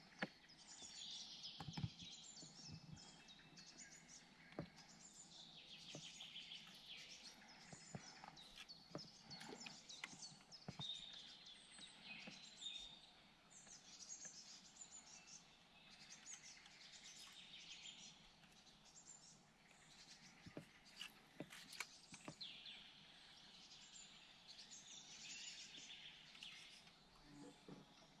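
Faint birds chirping, with scattered short clicks and knocks.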